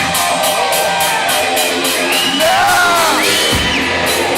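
Live hard rock band playing: electric lead guitar with bending, sliding notes over drums with a fast, steady cymbal beat.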